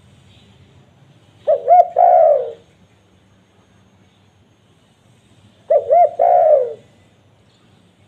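Spotted dove cooing twice, about four seconds apart. Each call is two quick short notes and then a longer note that falls in pitch.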